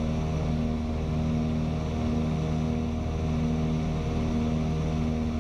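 Steady drone of a twin-engine piston aircraft in flight, heard from inside the cabin. The engine tones swell and fade slowly as the two engines beat against each other.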